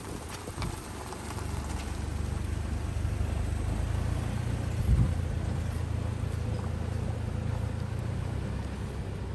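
A car being driven, with a steady low rumble of road and engine noise and a single bump about five seconds in.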